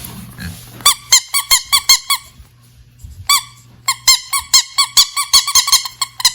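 Rubber ducky bath scrubber squeezed over and over, its squeaker giving short high squeaks, each bending in pitch. The squeaks come in two quick runs with a pause of about a second between.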